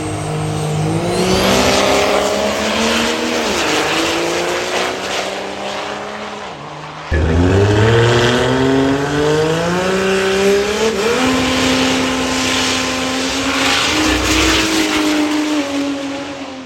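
Diesel truck engines under hard acceleration, in two separate runs. Each time the pitch climbs, drops briefly as the transmission shifts, then climbs again. The second run starts abruptly about seven seconds in and fades near the end.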